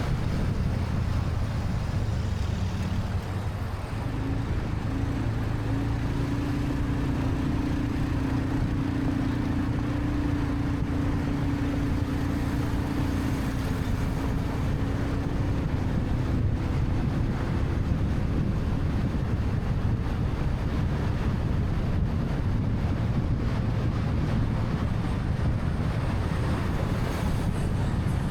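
Motorcycle running along a busy city road, with wind rushing over the microphone and traffic around it; a steady engine tone sits over the low rumble for several seconds from about four seconds in.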